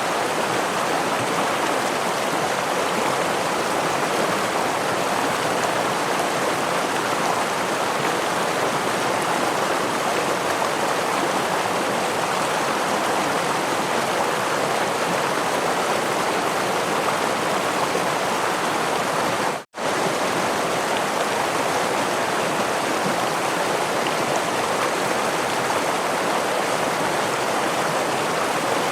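Steady rushing water of a stream or small waterfall, an even hiss with no distinct splashes. About two-thirds of the way through it cuts out to silence for a split second, then resumes unchanged.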